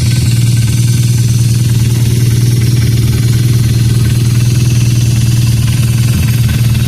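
BMW R nineT's 1170 cc boxer twin running steadily at idle through an aftermarket Akrapovic exhaust.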